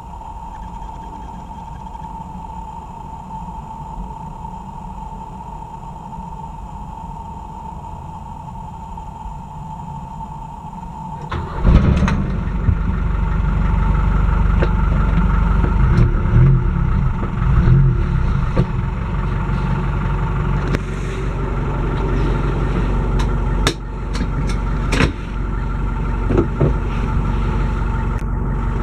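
Mercedes G-Class G240 engine cranked and started about eleven seconds in, after a stretch of steady low hum with the ignition on. It then runs at a fast idle, rising and falling a little, with a few sharp clicks near the end.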